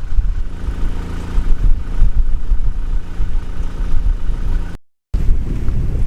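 An engine running steadily under a heavy low rumble of wind on the microphone; the sound cuts out for a moment near the end.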